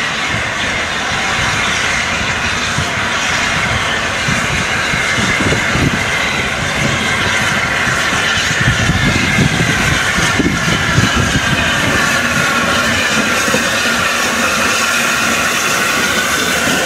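BR Standard Class 8P steam locomotive 71000 and its coaches rolling slowly over pointwork, wheels rumbling and clicking on the rails. A high squeal wavers in pitch throughout, typical of wheel flanges on a tight curve. The rumble grows heavier about halfway through.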